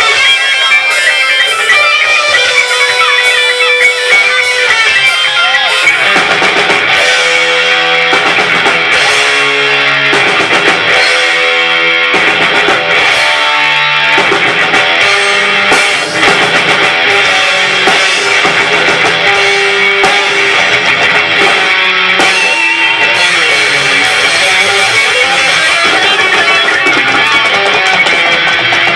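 Live rock band playing, with loud distorted electric guitar and drum kit. From about six seconds in to about fourteen seconds in, the band hits a run of short, evenly spaced chord stabs.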